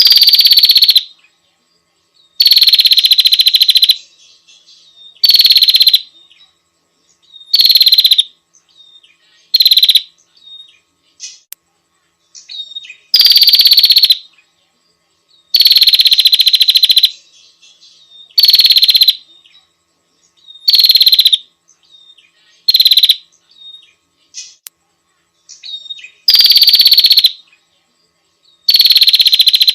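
Female prinia (prenjak) call played as a bird-lure recording to attract a male. It is a loud, high, rapid chattering trill in bursts of about a second, repeated over and over with short pauses between.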